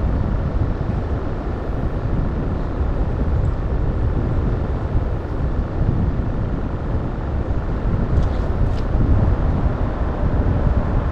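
Steady low rumbling noise outdoors, with two faint ticks about eight seconds in.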